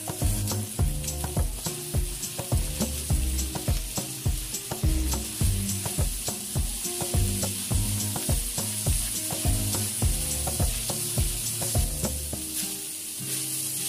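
Ground pork sizzling in oil in a metal wok with sautéed onions and garlic, a spatula stirring and scraping against the pan about twice a second to break up the meat. The scraping stops near the end while the sizzling goes on.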